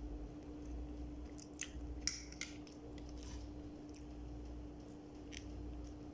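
A person chewing and biting food close to the microphone, with wet clicks and crisp crunches bunched about two seconds in. A steady low hum runs underneath.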